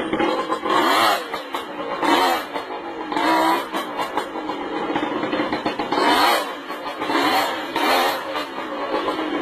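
Motorcycle engine revved over and over, the pitch rising with each short burst of throttle.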